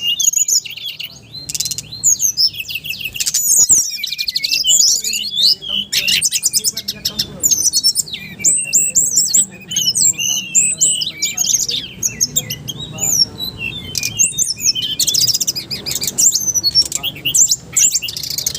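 Loud, continuous high-pitched bird chirping: rapid twittering trills and short sweeping calls, repeated over and over, with no pause.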